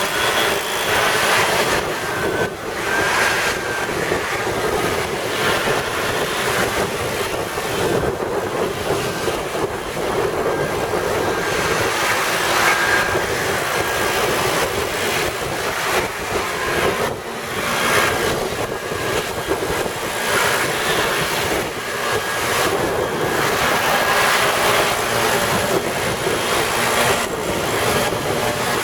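Air blower running steadily, blowing rinse water off a freshly washed car engine, its loudness rising and falling a little as the nozzle is moved about.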